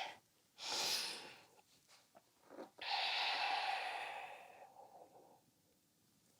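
A person breathing audibly close to the microphone: a short breath, then a longer, sighing breath out about three seconds in.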